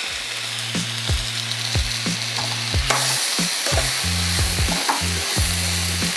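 Sliced onions, tomato, garlic and spices sizzling in hot oil in a pan while a steel spoon stirs the mix, knocking and scraping against the pan every half second or so.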